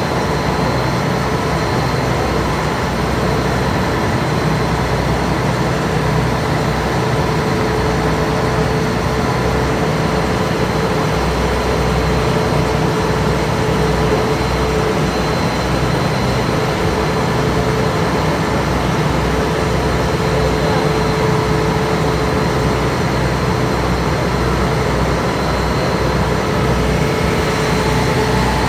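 Passenger ferry's engine running steadily, heard on board: a continuous low rumble with a steady whine on top.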